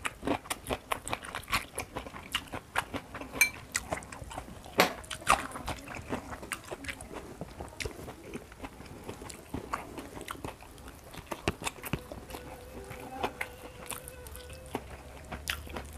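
Close-miked chewing of a mouthful of food: many short, irregular crunches and wet mouth clicks, busiest in the first half and sparser later.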